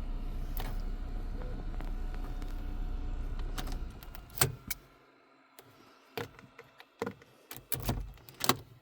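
2009 VW Golf Mk6 engine running steadily, then cutting out about four seconds in. A string of sharp clicks and knocks from the cabin follows, typical of keys, switches and trim being handled.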